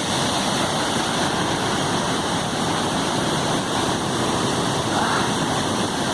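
Waterfall and river rapids: a loud, steady rush of churning water, like a washing machine.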